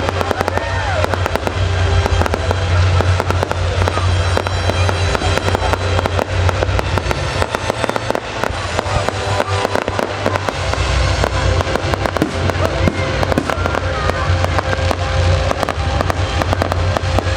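Fireworks going off in rapid, dense bangs and crackles throughout, over music with a heavy steady bass that drops out for a couple of seconds midway.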